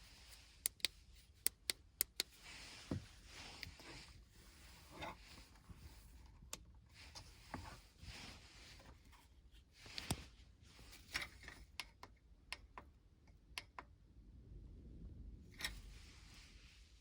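Faint scattered clicks and short rustles, with a low rumble underneath.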